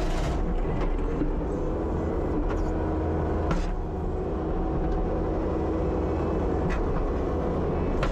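Kubota SVL75-2 compact track loader's diesel engine running steadily at work, with a steady whine over the drone. A couple of brief clanks come through, about three and a half seconds in and again near the end.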